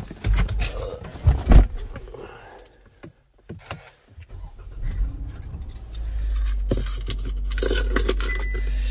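Knocks and rustles as someone settles into the driver's seat of a Kia Sportage, the loudest a single thump. About six seconds in, the push-button-started engine comes on and runs at idle with a steady low hum, with a short electronic beep near the end.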